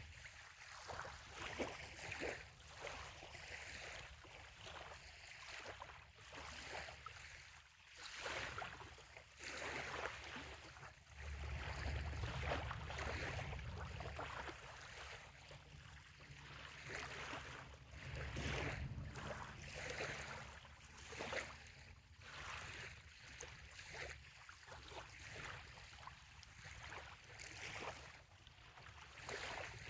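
Small bay waves lapping and washing on a sandy shore in irregular, gentle swells. A low rumble swells up twice, about a third of the way in and again just past halfway, and a faint steady low hum runs under it in the middle.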